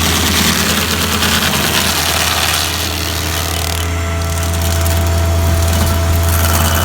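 Woodland Mills WG24 stump grinder running, a steady low engine hum under a hiss of the cutter wheel grinding into wood. The hiss thins for a moment about three seconds in, then picks up again.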